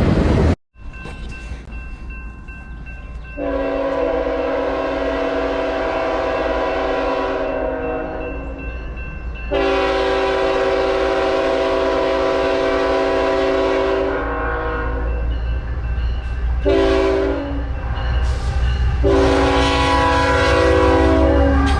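Diesel freight locomotive horn sounding the grade-crossing signal: two long blasts, a short one, and a final long blast, each a multi-note chord. A steady low rumble of the train runs underneath.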